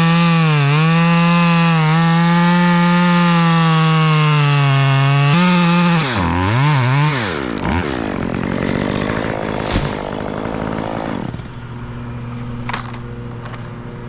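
Two-stroke chainsaw running at full throttle, its pitch dipping briefly under load as it cuts into wood. About six seconds in it revs up and down several times, then settles to a quieter, lower steady note through the last few seconds.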